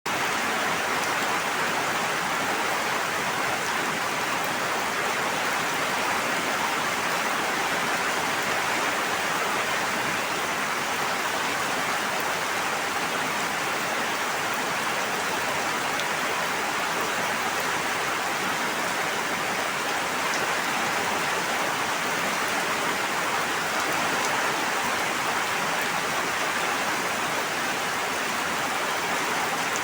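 Steady, even rush of water that stays at one level throughout, with no single drops or waves standing out.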